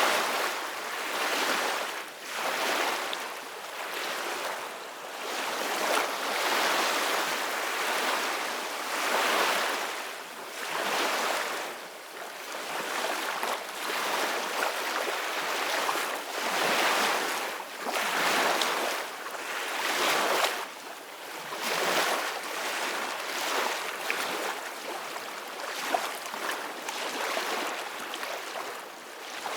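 Ocean waves breaking and washing up on a beach, the surf swelling and falling back every two to three seconds.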